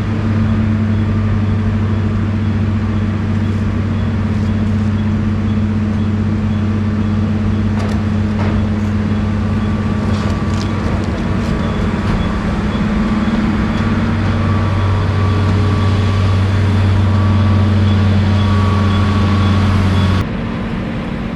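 Steady low engine drone of a running vehicle, with a constant deep hum; it drops off abruptly near the end.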